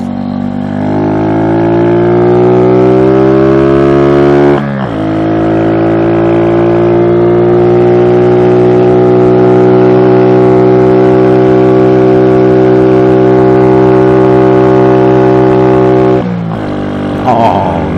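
SSR Razkull 125 pit bike's single-cylinder engine pulling away, its pitch rising, with one upshift about five seconds in. It then holds a steady cruise, and the throttle is closed near the end.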